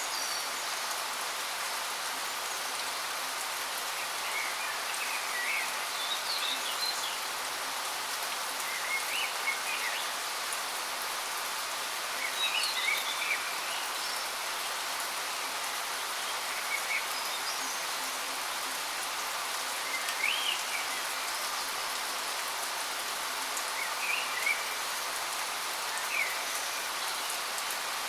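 Steady rushing hiss of a waterfall, with birds chirping in short phrases every few seconds over it.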